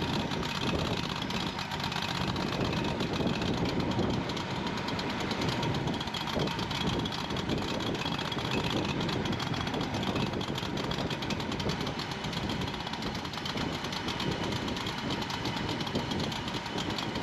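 Kohler CH25 25 hp V-twin engine running steadily on its newly fitted replacement carburetor, with a fast, even firing pulse.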